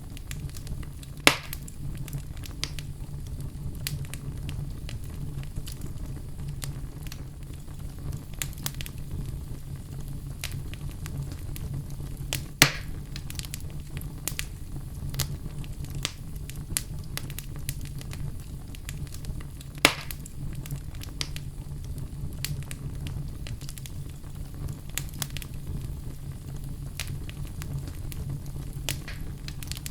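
Wood fire crackling in a fireplace: a steady low rumble with many small scattered crackles, and three sharper pops, about a second in, near the middle and about two-thirds through.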